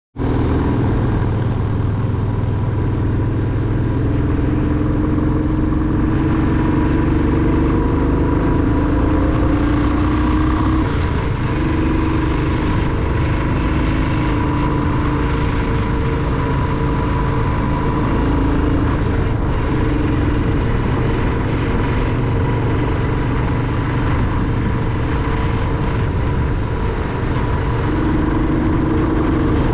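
Royal Enfield motorcycle engine running steadily while under way, its pitch shifting up and down every few seconds with throttle and gear changes.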